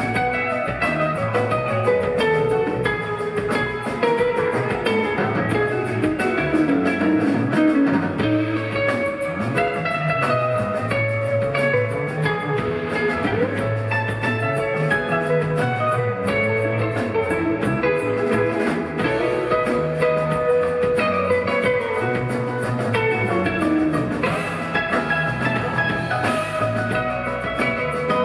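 Live rock band playing an instrumental jam: an electric guitar lead winding up and down over bass, keyboards and a drum kit.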